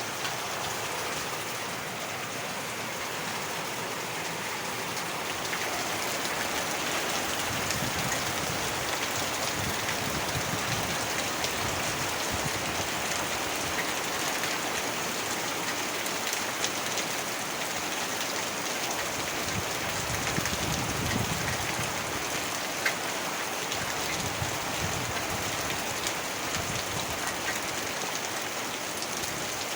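Heavy rain pouring steadily, with a low rumble swelling in twice, around eight and twenty seconds in.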